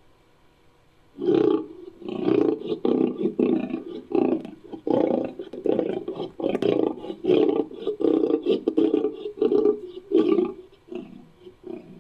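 Lion-based roar sound effect for the extinct cat Panthera youngi: after a moment's quiet, a long run of short, deep roaring grunts, about two a second, that weakens and trails off near the end.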